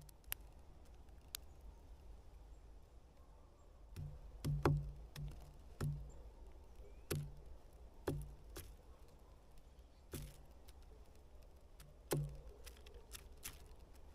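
Great spotted woodpecker pecking at wood: single, irregularly spaced taps, a few at first and then roughly one a second from about four seconds in.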